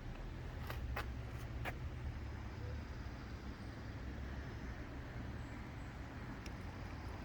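Steady low outdoor rumble, with a few faint sharp clicks about a second in and again near the end.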